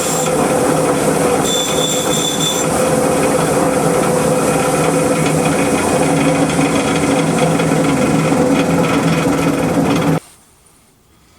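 Propane furnace burner running with a steady loud roar, cutting off suddenly near the end.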